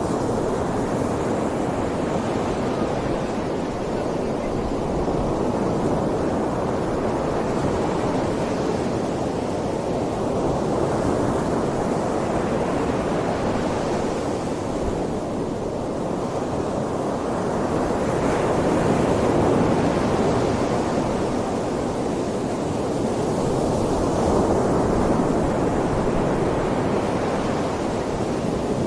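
Typhoon wind rushing through trees, a steady roar of noise that swells and eases in gusts every several seconds.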